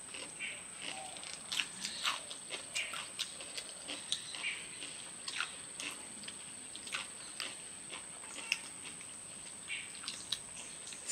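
Close-up eating sounds: chewing and wet lip-smacking as chicken biryani is eaten by hand, with soft clicks of fingers mixing rice on banana leaves, irregular, several a second.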